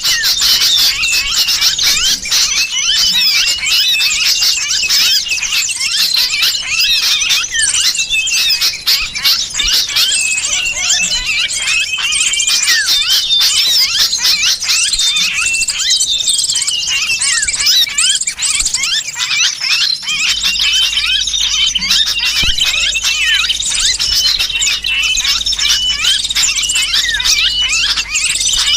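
Bird-lure recording: a dense, continuous chorus of agitated small birds' chirps, mixed with the harsh distress calls of a trapped sooty-headed bulbul (kutilang).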